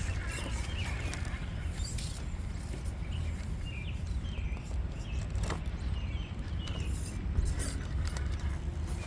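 Small electric RC rock crawler inching over the course, with faint whirring and clicking of its motor and gears under a steady low rumble of outdoor background noise.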